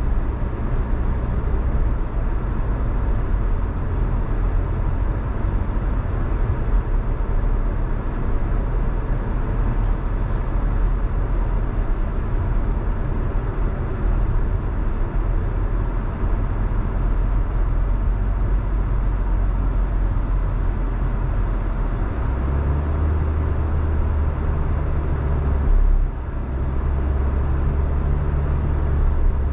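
Steady road noise of a car driving on a wet road: a continuous low rumble with tyre hiss. The low hum shifts in pitch about 22 seconds in.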